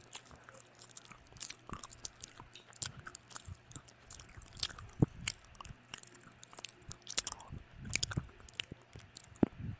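People chewing and biting food close to the microphone: irregular wet mouth clicks and smacks, with a sharper click about five seconds in.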